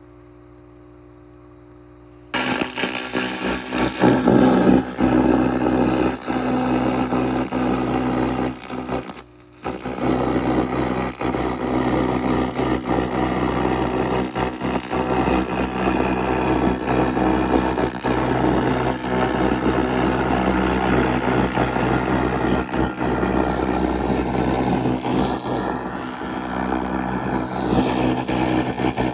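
SFX 2000 laser rust remover stripping rust from metal: a loud, steady crackling hiss that starts suddenly about two seconds in over a low machine hum, and breaks off briefly around nine seconds.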